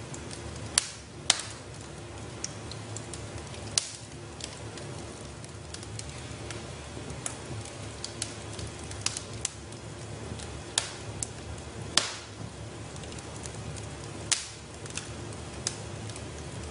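Wood fire crackling in a fireplace: a steady low rumble and hiss of the flames, broken by irregular sharp pops and snaps of burning logs, a few of them much louder than the rest.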